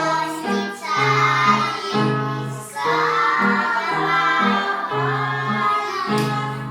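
Young children singing a song together over an instrumental backing track.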